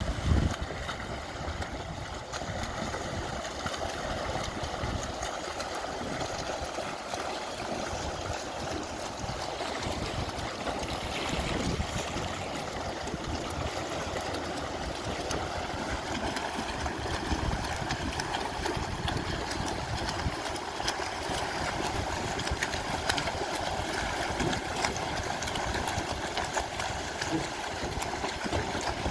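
Harbour water splashing and lapping in a steady, even wash, with a low rumble underneath.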